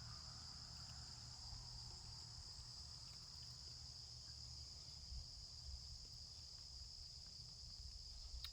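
Faint, steady, high-pitched drone of an insect chorus, unbroken throughout.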